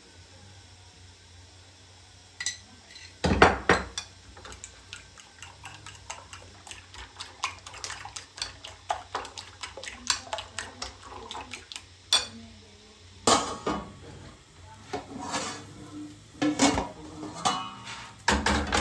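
Cutlery and dishes clinking: a dense run of quick clinks and knocks of metal on crockery, with a few louder knocks near the start and near the end.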